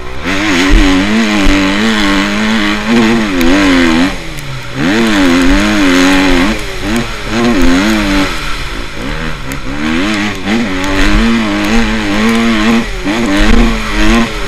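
Motocross bike engines revving hard, the pitch climbing and dropping again and again with throttle and gear changes. The sound eases briefly about four and nine seconds in, then comes back up.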